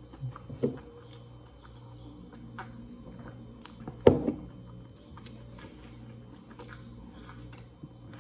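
Close-miked eating sounds of a man chewing a mouthful of sun-dried beef with rice and cassava flour, with wet mouth noises and lip smacks. There are a couple of smacks about half a second in and one much louder smack about four seconds in, over a faint low hum.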